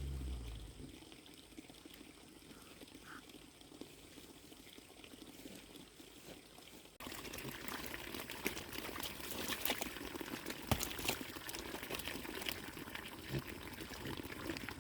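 Water pouring and trickling, with small splashes. About seven seconds in it suddenly becomes louder and busier with clicks.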